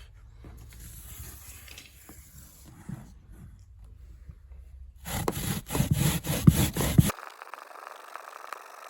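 Onion being grated by hand on a grater: faint rubbing at first, then about two seconds of quick, loud back-and-forth strokes, about four a second. Near the end, a steady faint hiss.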